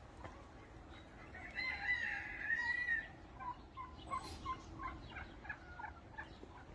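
A rooster crows once, starting about a second and a half in and lasting about a second and a half, followed by a quick run of about six short clucks from the poultry.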